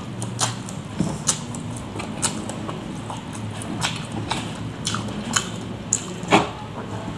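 Close-up mouth sounds of a person eating rice and grilled fish by hand: irregular wet smacks and clicks of chewing, the loudest about six seconds in, over a faint low hum.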